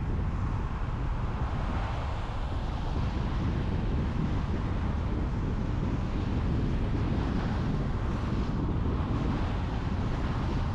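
Steady road noise from a car driving on a highway: tyre rumble and wind noise, with no single event standing out.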